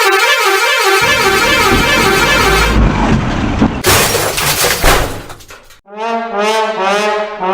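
A warbling pitched tone for about a second, then a noisy rushing stretch, then a brassy horn-like tone sounding in short pulses for the last couple of seconds.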